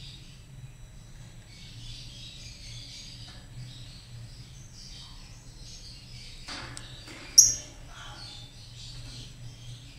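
Lovebirds chirping and twittering continuously over a steady low hum. A brief rustle comes about six and a half seconds in, followed by one sharp, loud click or clink.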